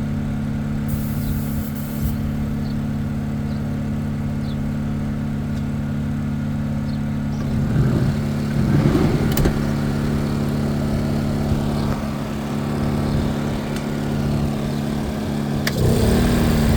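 Air compressor motor running with a steady hum that supplies a paint spray gun; the hum wavers briefly about halfway through and shifts in pitch near the end.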